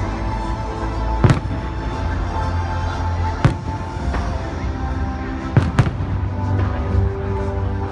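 Fireworks bursting: four sharp bangs, the last two in quick succession, over loud music with heavy bass.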